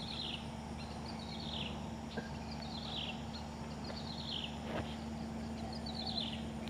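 A bird calling over and over: a short, high trill that falls in pitch, five times, a little over a second apart, over a faint steady low hum.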